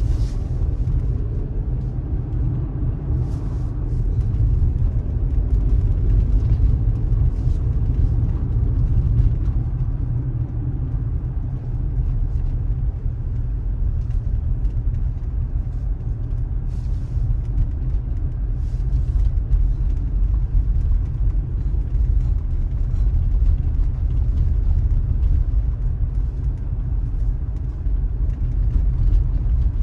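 A loud, steady low rumble that wavers in level, with no speech.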